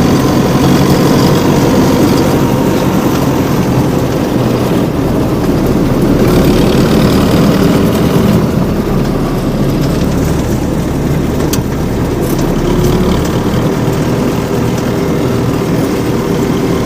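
Homemade mini tractor's engine running steadily, its low drone changing a little a few times.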